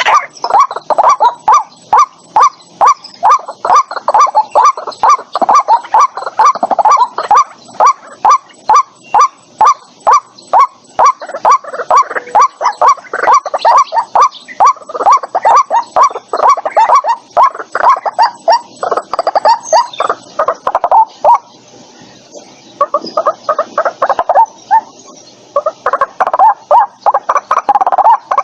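White-breasted waterhen calling: a long fast run of loud, repeated croaking notes, about three a second, that pauses briefly near the end and then starts up again more unevenly.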